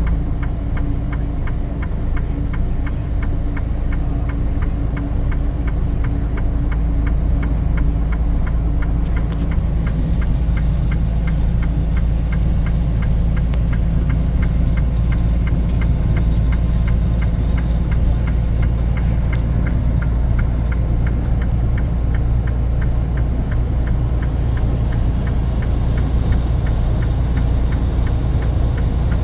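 Vehicle engine running steadily with a low rumble and hum, a light regular ticking of about three a second riding over it.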